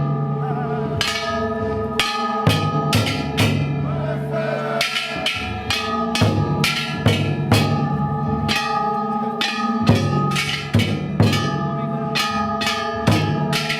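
Ishidori festival music: a large taiko drum and hand-held bronze gongs struck over and over in a dense, driving rhythm, the gongs ringing on between strokes.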